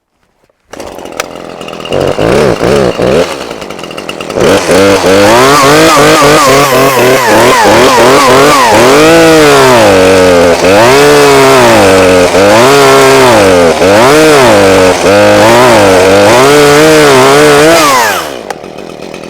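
Chainsaw starting at idle, revved briefly a few times, then held at full throttle while cutting about halfway into a small tree trunk for a hinge cut; its pitch repeatedly dips and recovers as the chain loads in the wood. It drops back to idle near the end.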